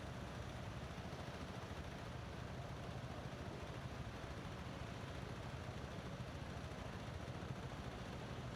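Motorbike riding at a steady pace: a low engine hum under an even rush of wind and road noise.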